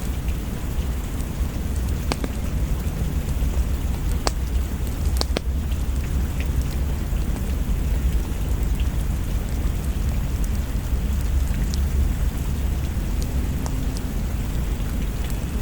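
Steady rain with a deep low rumble underneath, and a few sharp isolated pops every few seconds.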